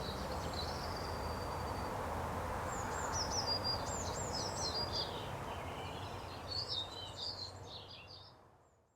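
Outdoor ambience: a steady low background hum with a small songbird singing in quick high chirping phrases, two bursts through the middle and later part, before the sound fades out near the end.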